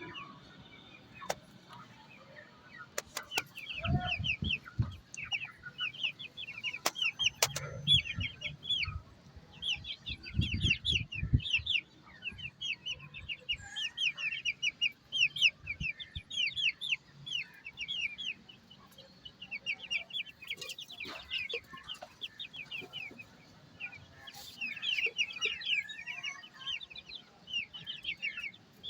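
White Ayam Cemani hens clucking, with louder low clucks about 4, 8 and 11 seconds in, over near-constant rapid high chirping.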